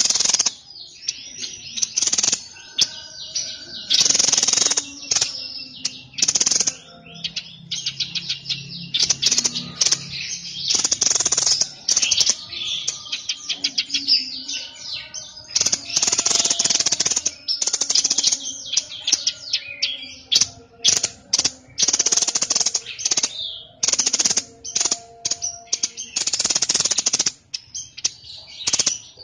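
Songbird of the kind known to Indonesian keepers as "burung sniper" singing loudly (gacor). Its song is repeated bursts of fast, high chattering trills and rattles, each up to a couple of seconds long, with short pauses between them.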